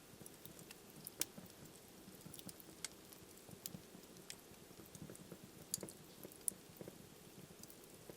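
Wood fire burning in a fireplace: a faint steady low rumble of flames with irregular sharp crackles and pops, a few of them louder snaps.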